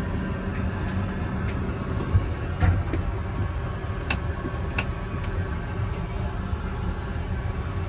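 Steady low interior rumble with a few short knocks and clicks scattered through it, the loudest thumps about two and a half seconds in.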